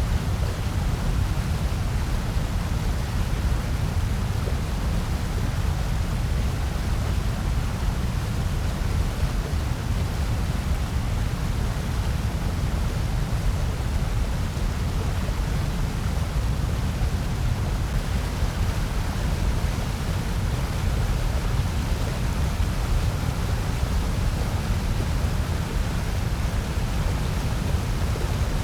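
Steady synthesized noise sold as white noise, an even rushing hiss that is heavier in the low end than true white noise, closer to a pink or brown noise.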